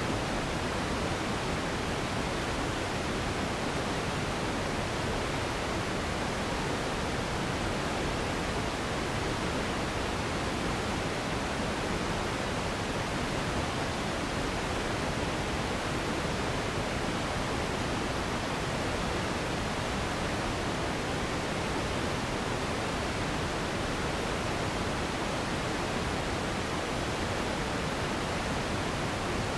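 Steady relaxation noise: an even, unbroken rushing hiss, fuller in the low and middle range than in the highs, with no change or rhythm.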